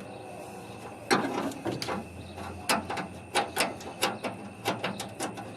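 A hand tool clicking as a small screw is driven to fasten a ground wire: a string of sharp metallic clicks in ones and twos, starting about a second in.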